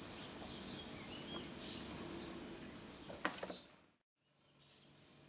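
Small birds chirping in short, high calls over a low steady background hum, with a sharp click about three seconds in. The sound cuts out suddenly near the end.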